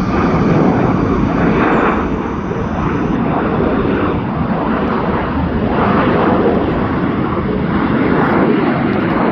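Jet airliner engines at takeoff power: a loud, rushing rumble that swells and eases in waves.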